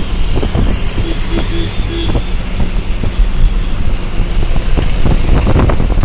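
Wind buffeting the microphone over the rumble of a moving vehicle and road traffic.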